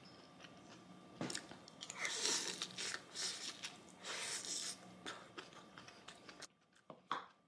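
Close-up chewing of a spoonful of stir-fried bean sprouts, tofu and egg, in short bursts with a few small mouth clicks, quiet for a moment near the end.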